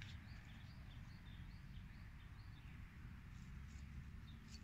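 Faint outdoor quiet: a small bird chirping short high notes, about three a second, through most of the stretch, over a low rumble.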